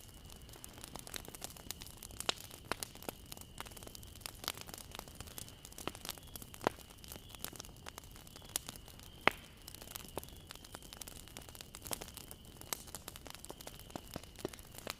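Bonfire crackling: irregular snaps and pops of burning wood over a low hiss, with one sharp pop about nine seconds in the loudest.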